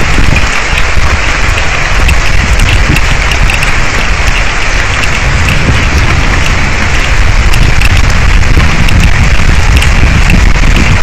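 Heavy rain pouring onto an outdoor camera's microphone, a loud steady hiss with dense crackling drops, over a steady low rumble.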